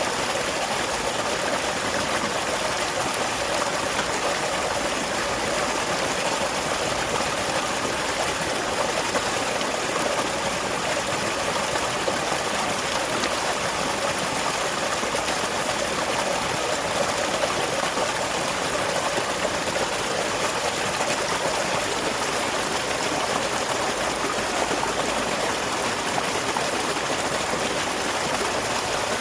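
Small waterfall beside a rice paddy, water splashing and running steadily without change.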